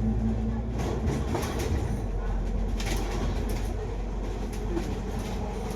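Cabin noise of a moving double-decker bus: a steady engine and road rumble with scattered short rattles, mostly in the first half.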